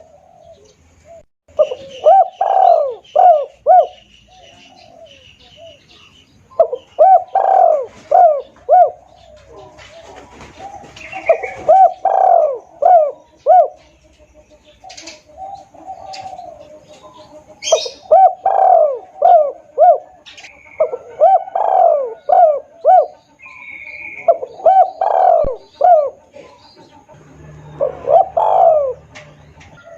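Spotted dove (tekukur) cooing loudly and clearly as a hunter's lure call. About seven phrases of several short coos come one after another, each phrase a couple of seconds long, with faint chirps of other birds in the gaps.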